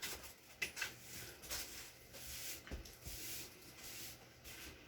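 Faint scattered rustles and light taps of objects being handled, over quiet room tone.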